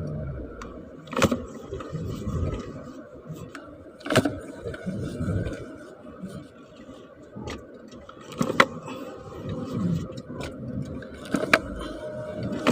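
Sharp metallic clinks and knocks from hand tools on metal, a few seconds apart, over a steady low hum.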